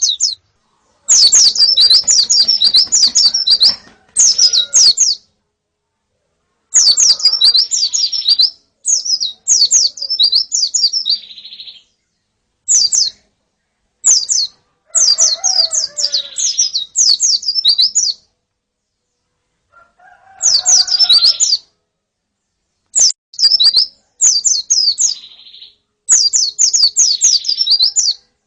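Female white-eyes (pleci) and a flock calling: phrases of one to three seconds of fast, high twittering notes, separated by short silent gaps.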